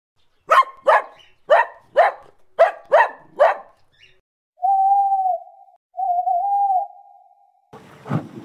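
A dog barks seven times in quick succession, then gives two long, level whining notes. Near the end a rougher, noisier animal sound begins.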